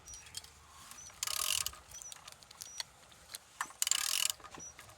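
A used engine being turned over by hand at the crankshaft: two bursts of mechanical clicking and rasping about two and a half seconds apart, with faint short squeaks in between. The engine turns freely, a sign that it is not seized.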